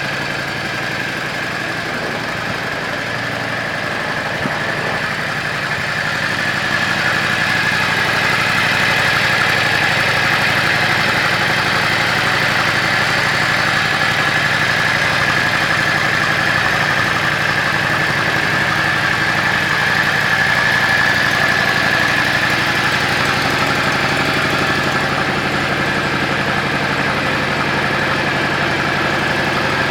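Yamaha Drag Star 400's air-cooled V-twin idling steadily through an aftermarket custom muffler, a little louder from about six seconds in.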